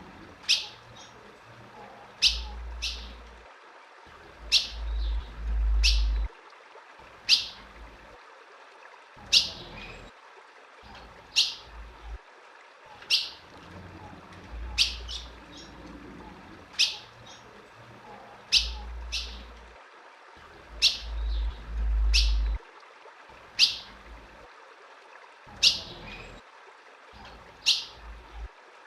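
Female ultramarine grosbeak (azulão) giving short, sharp chip calls, one every second or two and sometimes two in quick succession. A low rumble comes and goes beneath the calls.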